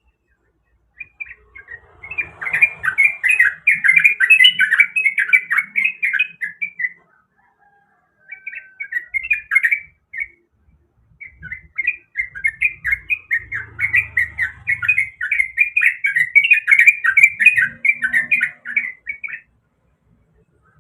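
Yellow-vented bulbul (trucuk) singing in long runs of rapid chattering notes, in three stretches with short breaks about 7 and 10 seconds in.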